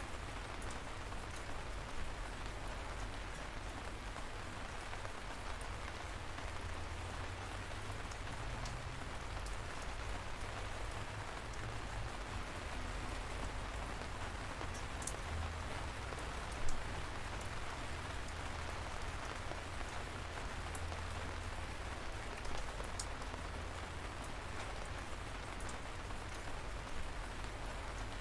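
Light rain falling steadily, an even hiss of drizzle with scattered individual drops ticking and one louder tap about two-thirds of the way in, over a steady low rumble.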